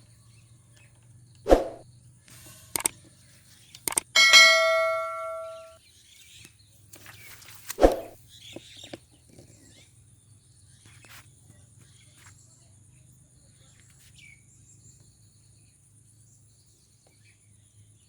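A few sharp knocks, then about four seconds in a metal object clangs and rings, dying away over about a second and a half; another knock comes near eight seconds.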